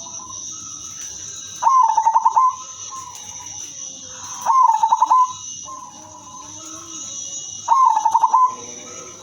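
Female zebra dove (perkutut) cooing: three phrases about three seconds apart, each a quick string of rolling, pulsing notes.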